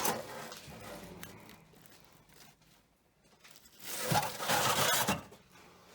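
Rustling and scraping of paper and debris being handled, fading over the first second, with a louder scrape about four seconds in.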